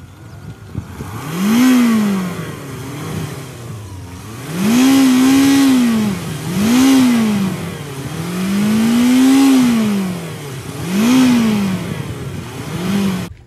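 An off-road vehicle's engine revved hard about six times, each rev rising and falling in pitch, two of them held for a second or two, as the vehicle works through deep mud.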